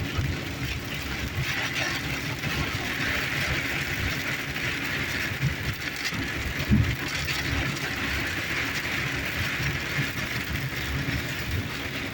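Heavy rain on a car's windshield and roof, heard from inside the cabin, with the wipers running at top speed over steady road noise.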